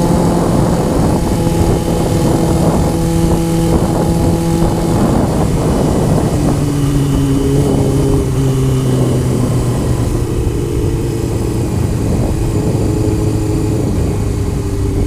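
Honda CBR motorcycle engine running on the road, with wind rushing and buffeting on the microphone. The engine note steps down in pitch about five seconds in and again a couple of seconds later as the bike slows.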